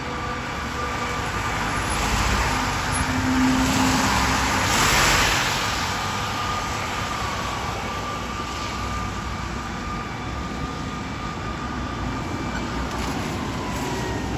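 Fire engine on the road with traffic noise: a steady rushing sound with a thin high tone held under it, swelling louder about four to five seconds in.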